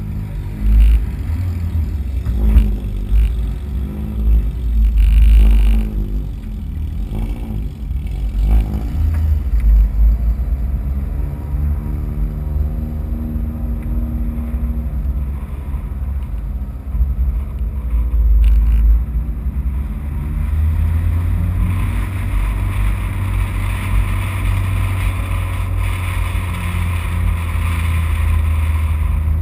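Race car's engine revved in several short rises and falls of pitch during the first nine seconds, then running steadily as the car rolls at low speed, with wind and road noise building from about twenty seconds in.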